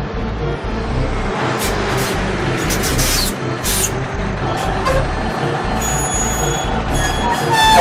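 Vehicle sound effects for a cartoon car wash: several short hissing bursts over a backing track with a steady low beat, with a few high tones near the end.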